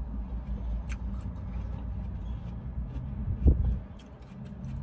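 Low steady hum of an idling car heard inside the cabin, with faint wet clicks of someone chewing watermelon and a single low thump about three and a half seconds in.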